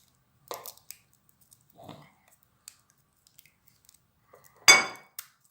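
Hands working small craft materials: a few soft brief rustles and scrapes, then one short, loud, sharp crunch about four and a half seconds in.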